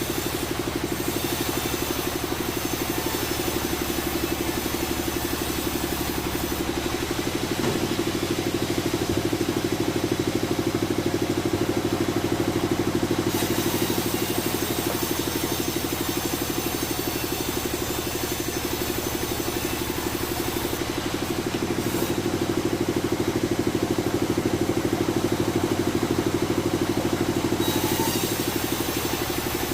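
Engine-driven sawmill machinery running steadily, its hum shifting in load and pitch about seven seconds in and again for several seconds near the end.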